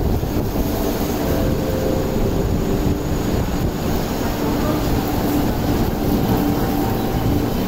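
An MTR East Rail Line MLR electric train moving along the platform in heavy rain: a steady rumble under the rain's noise, with a few faint steady tones.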